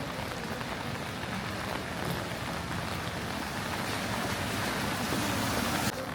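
Steady rain on a city street, with the hiss of a vehicle's tyres on wet road swelling from about halfway through and cutting off abruptly near the end.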